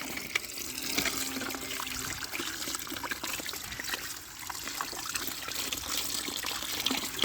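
Water running from a tap and trickling over toy vehicles as they are rinsed clean of mud, with small scattered clicks and splashes.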